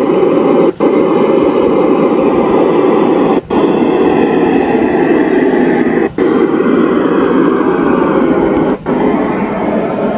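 Loud, distorted din from a big carnival sound system under test, its 15-subwoofer rig overloading the recording into a dense noise. The sound drops out for a moment about every two and a half seconds.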